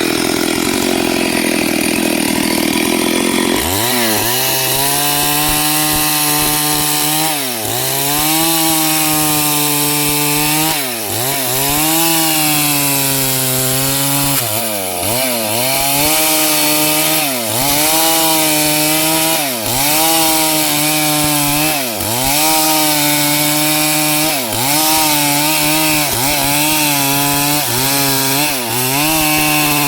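STIHL 72cc two-stroke chainsaw running at full throttle, cutting wood. After about four seconds the engine note turns clear, then dips in pitch and recovers again and again, about every two seconds, as the chain is loaded in the cut.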